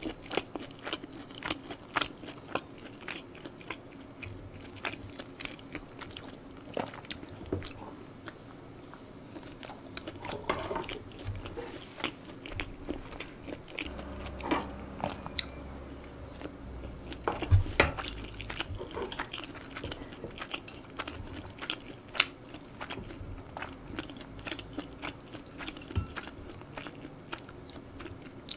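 Close-miked chewing and mouth smacks of a person eating stir-fried spicy pork and rice, a steady run of small wet clicks. A few sharper clacks come around the middle, from a wooden spoon and chopsticks against the bowls.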